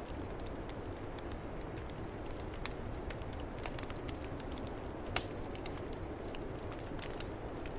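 Wood fire crackling with scattered sharp pops, the loudest about five seconds in, over a steady low rush of storm wind.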